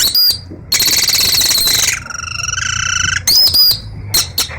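A boy imitating a canary's song with his mouth: a rapid buzzy trill, then a warbling whistle, then a few sharp high chirps near the end.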